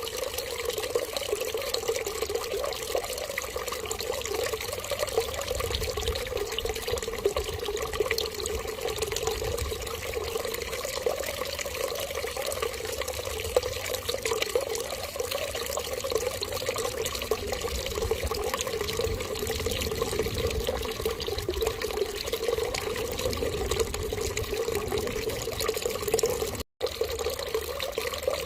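Steady running water, like a tap left running, unchanging throughout. It cuts out for an instant near the end.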